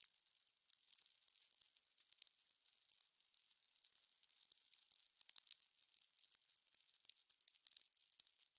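Crackling fire: a faint hiss full of small, sharp snaps and pops, with louder clusters of pops about five seconds in and again near the end.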